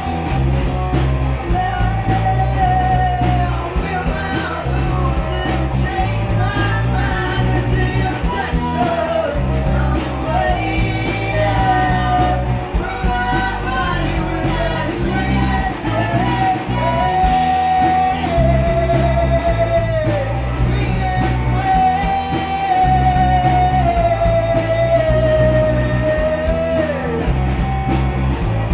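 A live gypsy rock band plays a song: a sung melody over guitar, a repeating bass line and drums.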